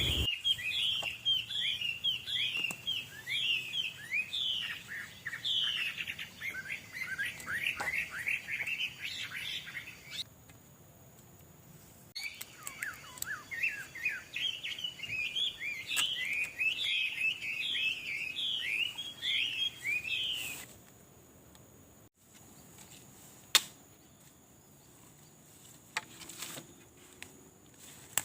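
A songbird singing rapid runs of short, high chirps in two long phrases, the second starting after a pause of about two seconds. The singing stops about two-thirds of the way through, leaving only a few faint clicks.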